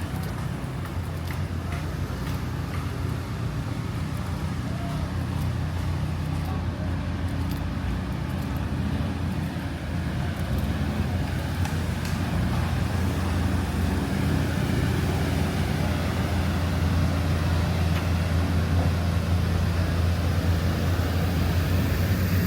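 Steady low engine rumble of road traffic, gradually getting louder.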